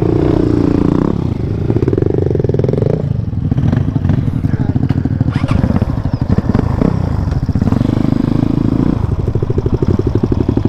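Motorcycle engine running under way on a rough track. The revs climb over the first few seconds, drop about three seconds in, and it carries on at a lower, rapidly pulsing note.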